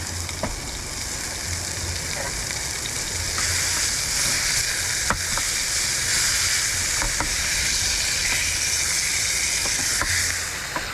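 Hamburger patties sizzling and frying in a pan. The sizzle grows louder about three seconds in and eases near the end, with a few sharp ticks through it.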